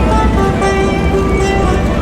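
Turkish folk music in an instrumental passage between sung lines, led by a plucked string instrument with some held notes.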